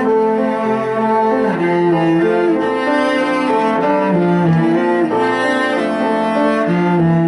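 Bowed string instrument playing a slow melody of sustained notes, each held for about a second before moving to the next pitch.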